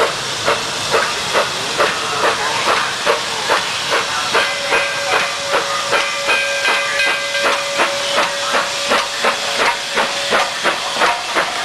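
Oil-fired narrow-gauge steam locomotive chuffing steadily, about three exhaust beats a second, with hissing steam. About four seconds in its steam whistle sounds one long, steady note that lasts about six seconds.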